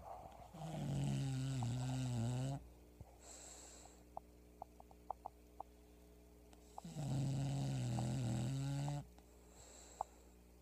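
English bulldog snoring in its sleep: two loud, rumbling snores of about two seconds each, some six seconds apart, each followed by a shorter, softer breathy hiss.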